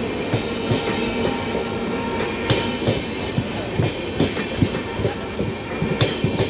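Train running along the track: a steady rumble with irregular clacks and knocks of the wheels over the rails.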